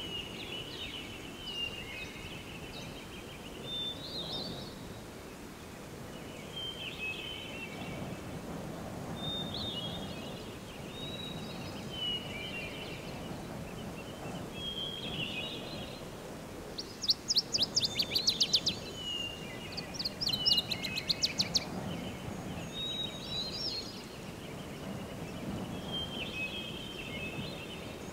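Birds calling in short chirping phrases every couple of seconds over a low background rumble, with two bursts of fast rattling trills about 17 and 20 seconds in.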